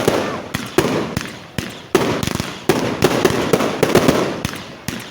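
Fireworks going off in quick succession: sharp bangs every half second or so, each trailing off in crackle and echo.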